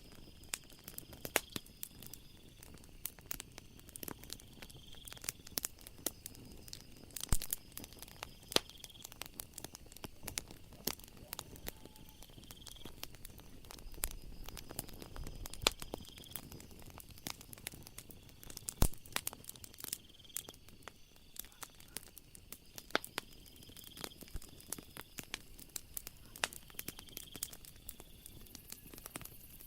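Wood fire crackling with irregular sharp pops, over a steady pattern of high-pitched chirping from night insects that comes back every couple of seconds.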